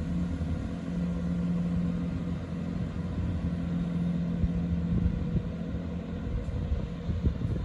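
Class 166 diesel multiple unit pulling out of the station: a steady low diesel drone that weakens over the last couple of seconds as the train draws away.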